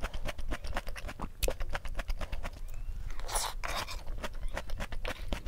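Close-miked chewing of crunchy cabbage-corn salad: a rapid, irregular run of crisp crunching clicks, with a short rustling hiss about three and a half seconds in.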